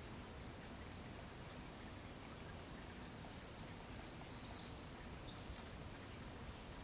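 A small bird sings a quick high trill of about nine notes, about three seconds in, after a single brief high chirp, over a quiet outdoor background.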